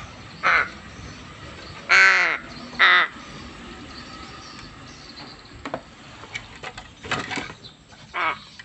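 A crow cawing: three loud, harsh caws in the first three seconds, the middle one the longest. Later come a few quieter calls and some light clicks.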